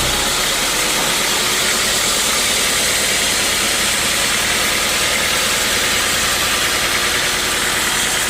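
Sawmill machinery running, a loud steady mechanical noise with no break; a low hum drops away right at the start.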